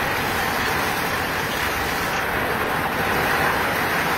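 Heavy downpour: a steady rush of rain on tiled roofs, with water pouring in streams off the overflowing roof gutters and splashing down.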